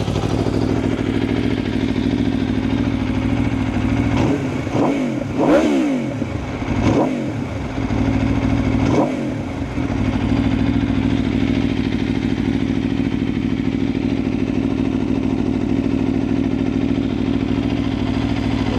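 Aprilia RSV4's V4 engine idling steadily, blipped three times about four to six, seven and nine seconds in, the revs rising and falling back to idle each time.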